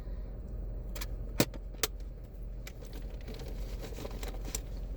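Steady low hum of an idling car, with a handful of sharp clicks and light rattles, the loudest about a second and a half in.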